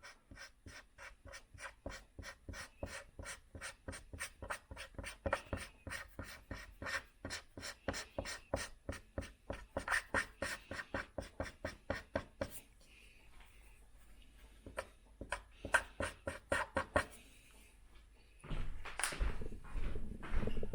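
Felt-tip furniture scratch-repair marker rubbed back and forth over a scratched wooden table top, a short scratchy stroke about three or four times a second. The strokes stop about two-thirds of the way through, and a few more follow. Near the end a louder, rougher rubbing starts.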